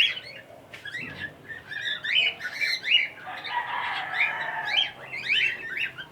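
Cockatiels and African lovebirds in an aviary chirping, a quick run of short rising and falling calls several times a second, thickening into a denser stretch of chatter about three seconds in.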